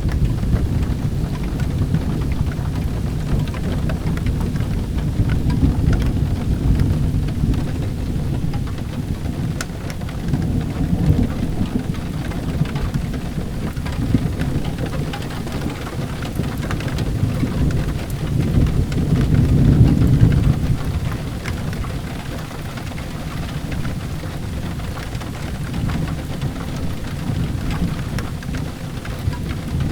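Steady rain with rolling thunder, the rumbles swelling and fading several times and loudest about two-thirds of the way through.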